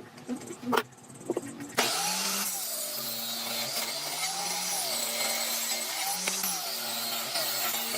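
A few separate knocks, then about two seconds in an electric power tool starts suddenly and runs steadily, its pitch swinging up and down in a repeating cycle as it works.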